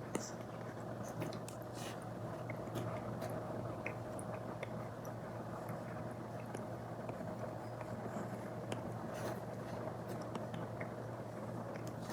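Apple Pencil Pro tip scratching and tapping on an iPad's paper-like matte screen protector, with irregular short strokes and small ticks over a steady low hum.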